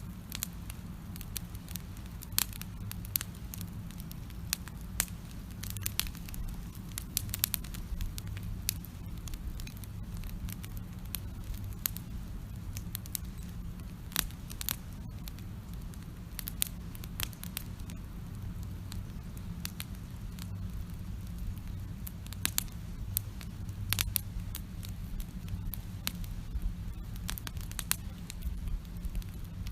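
Wood campfire crackling, with frequent sharp, irregular pops and snaps over a low steady rumble.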